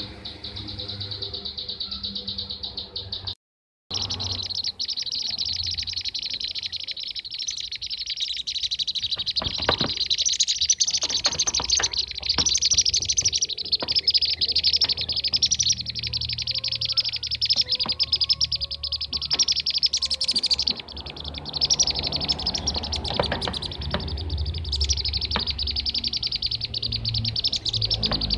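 Bee-eaters (kirik-kirik) calling in a dense, continuous chorus of rapid high chirps, with a brief complete cut-out about three and a half seconds in.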